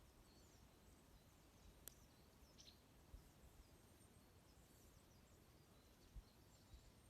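Faint chirping and twittering of small songbirds, brief high calls scattered throughout, with a single sharp crackle from a wood campfire about two seconds in.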